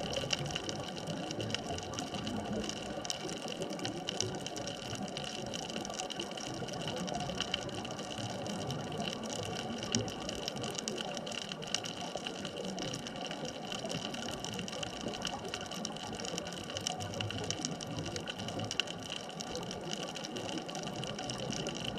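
Underwater ambient noise: a steady watery hiss with dense fine crackling and a few faint steady tones.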